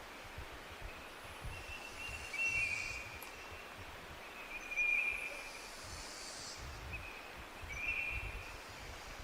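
Forest ambience with birds calling in thin, level whistled notes, several times. Underneath is a high hiss that swells and fades about every three seconds, and a low rumble.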